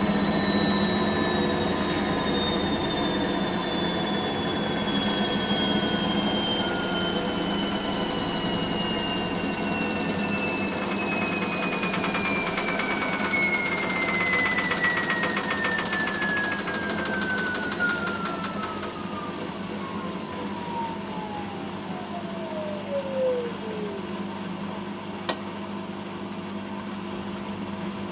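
Bosch WAN28220FF washing machine slowing down after a spin: the drum motor's whine falls steadily in pitch from high to low and dies out after about 24 seconds, over a low steady machine hum. A single sharp click follows near the end.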